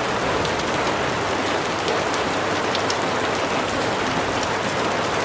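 Steady rain falling on a surface, an even hiss with scattered small sharp ticks.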